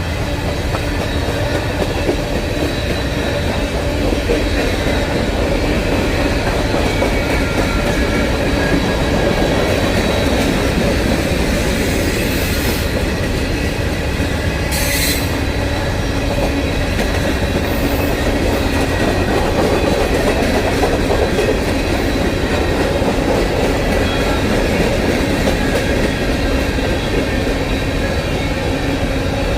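CSX freight train rolling steadily past, a continuous rumble of the cars with thin, steady high wheel tones over it. A brief hiss comes about halfway through.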